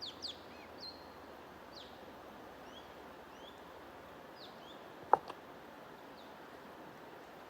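Small birds chirping in short, quick chirps, several near the start, over a steady white-noise hiss. About five seconds in there is a sharp click, the loudest sound, followed by a fainter one.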